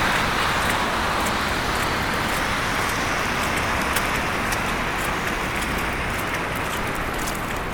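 Car tyres hissing on a slushy, snow-covered street, slowly fading as the traffic passes, with light footsteps crunching in snow about twice a second.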